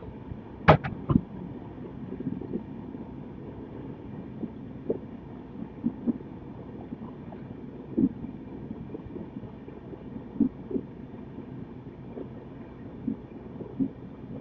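Moving passenger train heard from inside the coach: a steady running rumble with irregular knocks and rattles, and two sharp clicks near the start.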